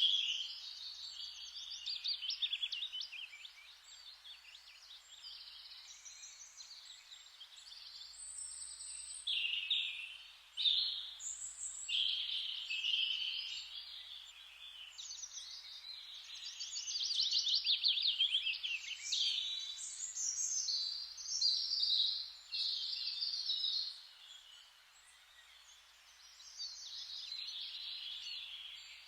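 Forest ambience with many songbirds chirping and trilling over one another, some fast rattling trills among them, over a faint steady hiss. The birdsong eases briefly a little before the end.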